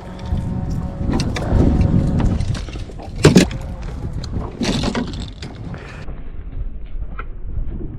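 Hooked tarpon jumping and thrashing at the surface: a series of splashes, the loudest about three seconds in, over a steady low rumble.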